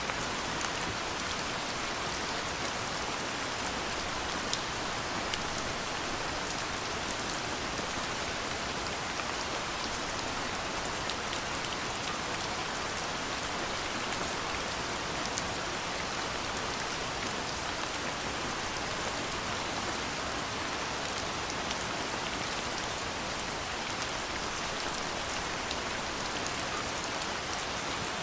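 Steady rain falling and pattering on surfaces, with scattered sharper drop ticks over a constant hiss.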